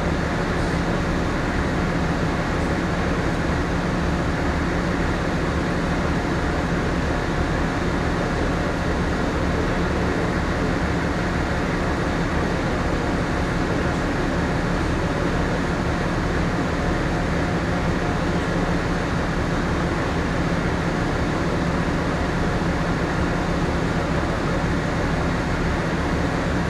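Steady drone of the moored Ogasawara Maru's onboard machinery and ventilation: a low hum under a constant rush of air.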